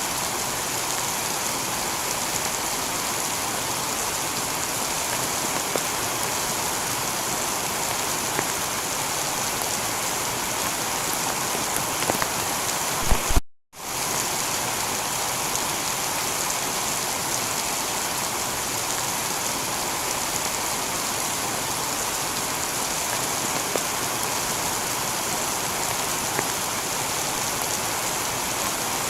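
Heavy rain falling steadily on a tiled roof, an even hiss with occasional faint drop ticks. The sound cuts out completely for a split second about halfway through, then resumes unchanged.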